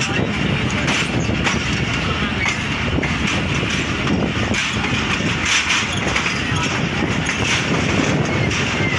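Pakistan Railways passenger train running slowly, heard from an open coach doorway: a steady rumble of the coaches on the track with faint voices underneath.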